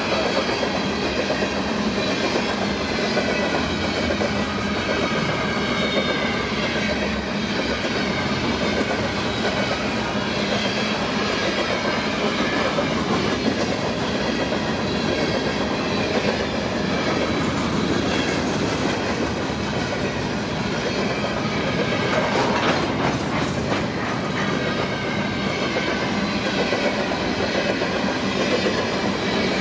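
CN train rolling past, wheels clicking over the rail joints in a steady rumble, with a quick cluster of clicks about two-thirds of the way through.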